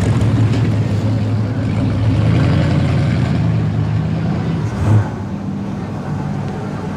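Classic American cars' engines running at low speed as the cars roll slowly past, a steady low hum that is loudest for the first few seconds and then fades. A short sharp knock comes about five seconds in.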